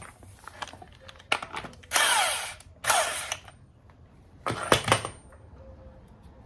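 A corded half-inch-drive power tool run in four short bursts, the second and third the longest, its pitch falling as the motor slows at the end of each.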